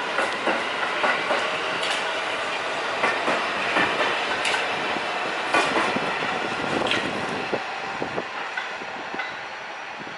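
New York City subway train running on the rails, its wheels clicking over rail joints at irregular intervals, growing quieter near the end as it moves away.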